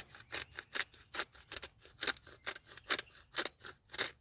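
Hand spice grinder being twisted to grind pepper over raw eggs: a quick train of short, dry rasps, about four to five a second.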